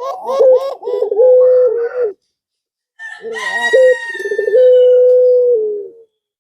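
Male puter pelung dove cooing in repeated phrases, one ending in a long held note. About three seconds in, a higher, falling call, likely a rooster crowing, sounds over it.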